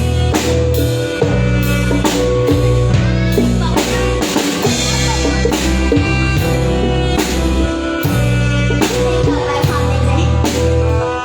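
Band playing an instrumental passage on a drum kit, with a steady beat of kick and snare under sustained bass notes that change every second or two, plus other pitched instruments.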